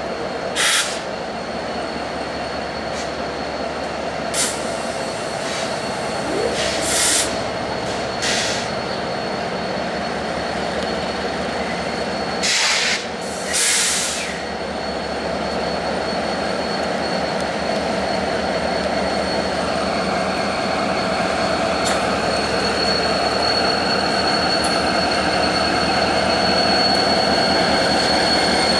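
Ferromex freight train rolling through the yard, steel wheels on the rails with a steady high squeal that grows stronger in the second half. Several short, sharp hissing bursts come in the first half.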